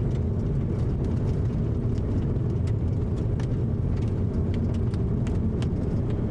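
Steady low rumble of a car driving, heard from inside the cabin, with scattered sharp clicks and ticks every so often.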